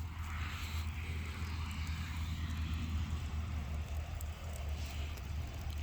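Large bonfire burning: a steady low rumble and hiss with a few faint crackles.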